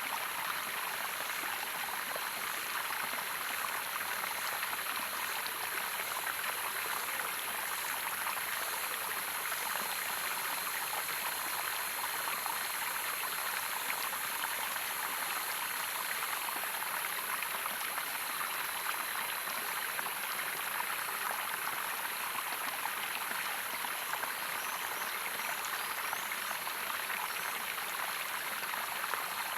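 Running water of a small waterfall, a steady rushing splash with no breaks.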